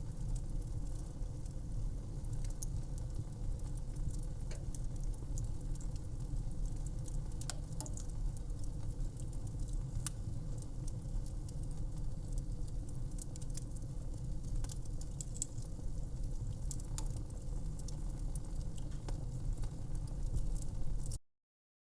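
Wood fire crackling, with irregular small pops and snaps over a low steady rumble. It cuts off suddenly near the end.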